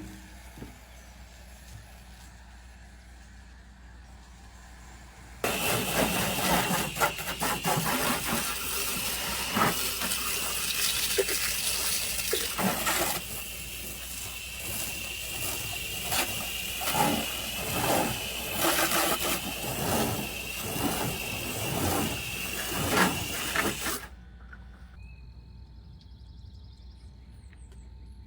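A jet of water spraying hard against a vehicle, with a steady high whine under the hiss. It starts suddenly about five seconds in, surges unevenly, and cuts off suddenly near the end.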